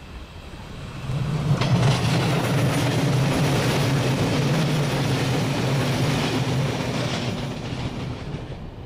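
Electric multiple unit passing close at speed, its wheels running over the track with a steady low hum; the sound swells about a second in and fades near the end.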